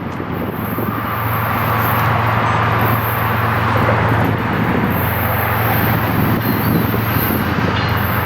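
Diesel-led freight train rumbling past, with a steady low engine drone that grows louder over the first couple of seconds and then holds.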